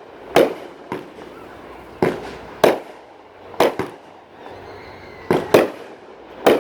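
Fireworks bursting: a series of about eight sharp bangs at uneven gaps, some in quick pairs, each trailing off in a brief echo.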